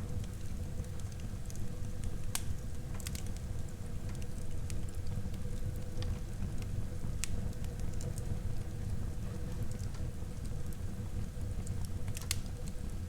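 Wood fire burning in a fireplace: a steady low rumble of the flames with a handful of sharp crackles and pops from the burning wood.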